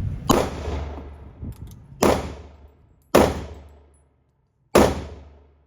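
Four pistol shots fired at an unhurried pace, each a sharp crack with a ringing echo that dies away over about a second, the last coming near the end.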